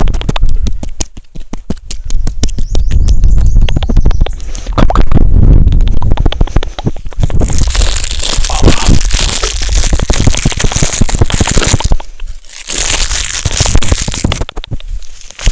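Close-up crackling and crunching: rapid clicks for the first several seconds, then a louder rustling hiss from about halfway, broken by a short lull near the end.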